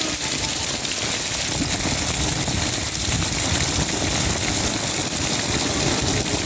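Steady, loud rush of floodwater, an even roar of water noise without a break.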